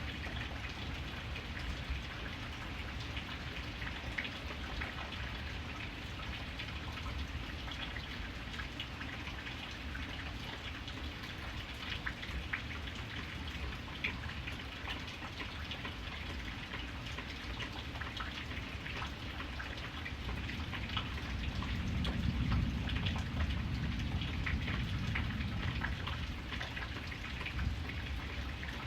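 Steady rain falling on a surface, with individual drops heard as scattered sharp ticks. A low rumble swells for several seconds about two-thirds of the way through.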